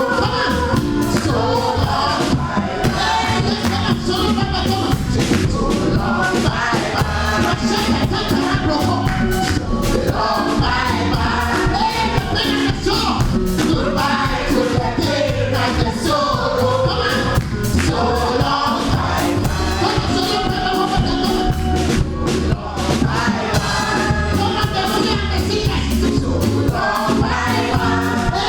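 Gospel choir singing live over band accompaniment with a steady beat.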